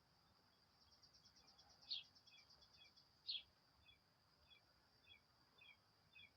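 Faint bird chirps: two sharper chirps about two and three seconds in, a quick trill, and a run of short falling notes about twice a second, over a steady high insect drone.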